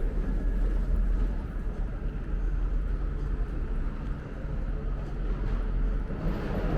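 City street ambience: a steady low rumble of traffic under a general wash of urban noise.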